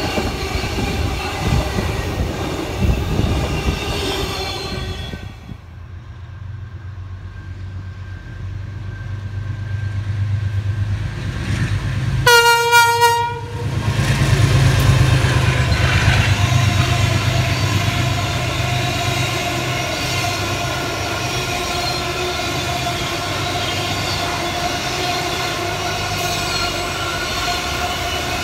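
Container freight trains rolling past on the tracks with a steady rumble and wheel noise. About twelve seconds in, the approaching 2800-class locomotive sounds its horn once, a single steady tone lasting about a second, the loudest sound here, and then rumbles past hauling container wagons.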